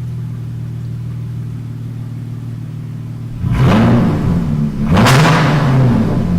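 A 2017 Dodge Charger SXT's 3.6-litre V6 exhaust, with the muffler and resonator deleted and an electric cutout fitted, idling steadily and then revved twice, about three and a half and five seconds in, each rev rising and falling back to idle.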